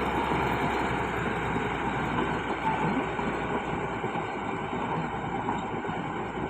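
Bulldozer at work: a steady heavy diesel engine rumble mixed with a dense clatter.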